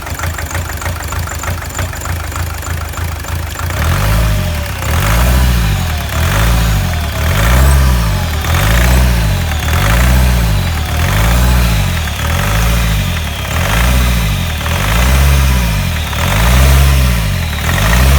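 BMW E46 2.0-litre four-cylinder turbodiesel idling, then revved over and over from about four seconds in, about once every second and a half. It runs unevenly, misfiring ('троит') and running rough.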